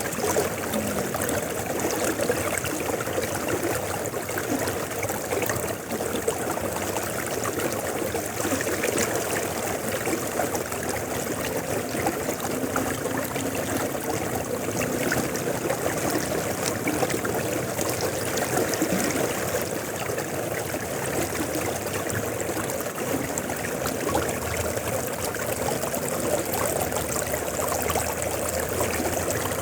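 River water flowing over rocks: a steady rushing and babbling with no let-up.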